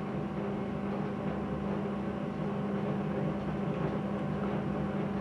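A steady, even mechanical hum with a low drone and no change in level.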